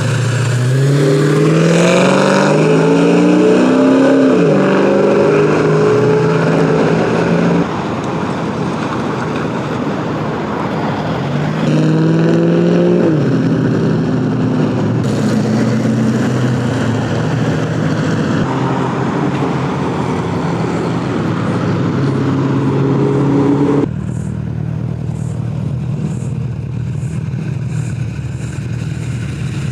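1930s Ford and Chevrolet hot rods pulling away, their engines revving up in rising pitch with a gear change about four seconds in, then again about twelve seconds in. Between these, the engines run steadily, with sudden cuts from one car's sound to another.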